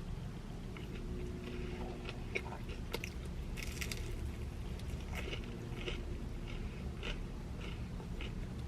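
A person biting and chewing crunchy food close to the microphone, with irregular crunches and mouth clicks.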